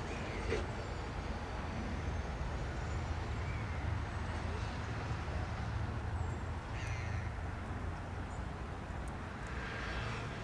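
Harsh bird calls, about four of them a few seconds apart, over a steady low rumble.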